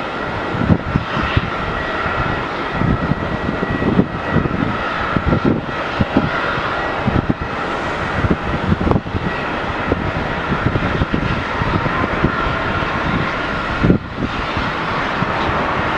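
Airbus A350-900 airliner departing, its two Rolls-Royce Trent XWB turbofans heard as a steady jet noise with a high whine. Uneven low thumps run underneath.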